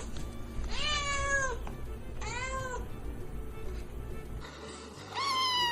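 Kitten meowing three times: a long meow that falls in pitch at its end, a shorter second one, and a higher-pitched third near the end.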